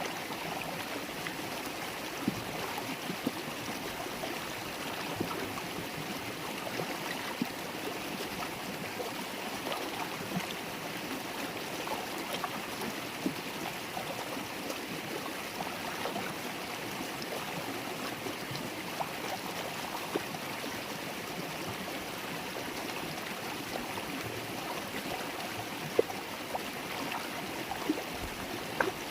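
River water babbling over stones: a steady rushing flow with frequent small splashes and plinks, a few sharper splashes near the end.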